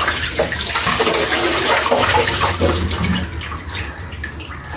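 Water running and splashing over and into a whole raw chicken as it is washed inside and out, the flow easing off near the end.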